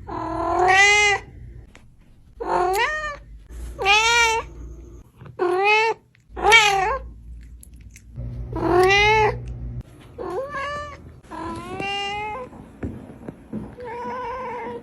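Domestic cat meowing over and over: about nine long, drawn-out meows, each rising then falling in pitch, a second or so apart, the last one fainter.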